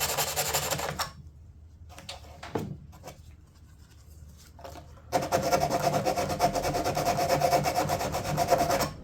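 Sanding on the edge of a fiberglass door panel: a steady scraping that stops about a second in, then starts again about five seconds in and stops near the end. It is a safety sand, rounding off the sharp, prickly fiberglass edges.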